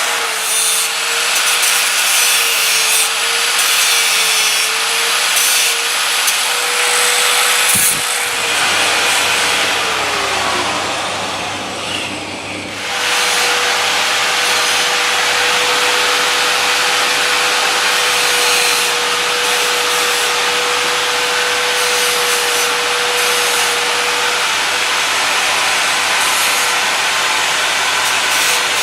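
Power grinder with a very fine cutting disc cutting stainless steel: a steady motor whine under the loud hiss of the cut. About ten seconds in the whine falls in pitch as the disc slows, there is a brief lull, then it runs back up to speed and the cutting goes on steadily.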